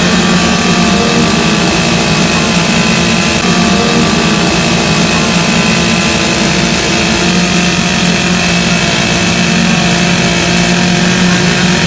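Chainsaw running at high speed, its engine note held nearly steady, as used for carving wood.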